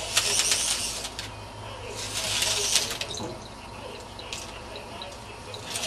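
Rotor of a PicoZ MX-1 micro RC helicopter whirring in three short bursts with rapid clicking: right at the start, about two seconds in, and again at the very end.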